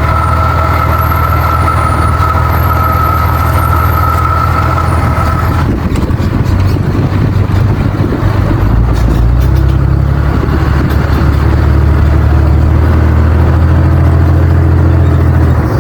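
Work truck's engine running as it is driven over muddy ground, with a steady high whine over it that stops about six seconds in. The engine note then deepens and grows louder as it pulls.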